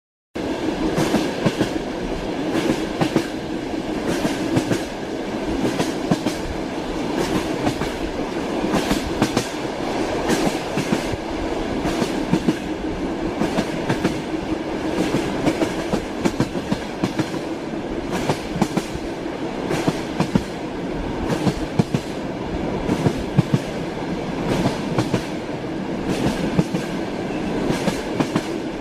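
Train wheels clacking over rail joints, heard from inside a moving railway carriage, over a steady rolling rumble.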